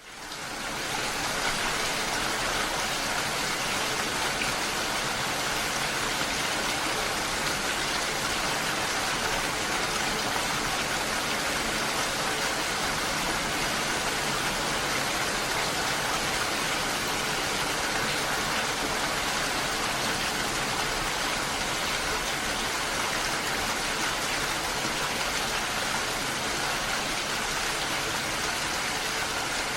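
Steady rain falling, an even dense hiss with no distinct drops or thunder, fading in over the first second.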